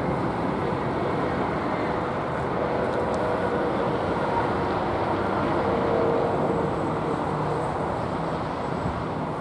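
A train passing over a railway level crossing: a steady, continuous rumble of the wheels and locomotive, a little louder around the middle.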